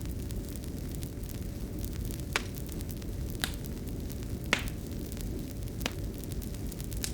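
Wood fire crackling in a fireplace: a low steady rush with small ticks and four sharper pops about a second apart, over a faint steady hum.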